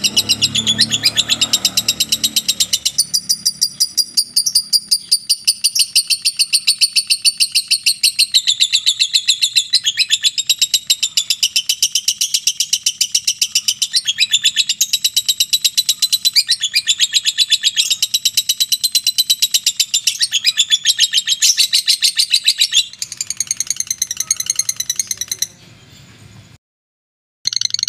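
Lovebird giving its long 'ngekek' chatter: a rapid, unbroken stream of shrill, high-pitched chirps repeated many times a second. Near the end it fades and cuts off briefly, then starts again.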